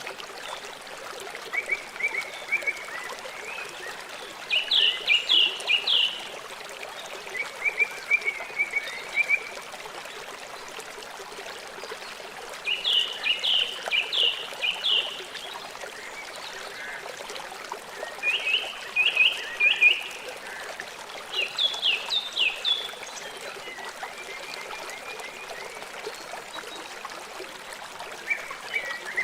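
A river running steadily, with an animal calling over it every few seconds in short runs of quick, high chirps.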